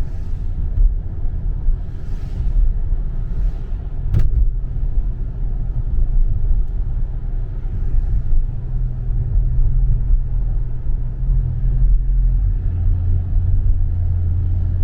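2017 Dodge Charger Scat Pack's 6.4-litre 392 HEMI V8 running under way, a loud low exhaust drone through mid-muffler-deleted exhaust. A sharp click about four seconds in, and the note settles into a steady hum near the end.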